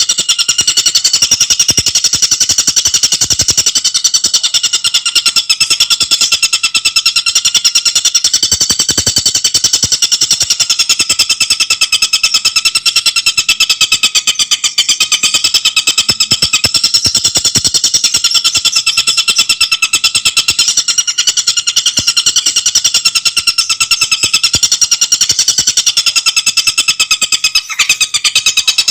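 Tengkek buto singing a continuous, very fast, tightly packed run of high, shrill repeated notes, with a brief break near the end.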